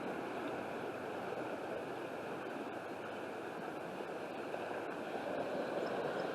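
Floodwater of a swollen creek rushing steadily past, a steady noise of fast-moving water that grows a little louder near the end.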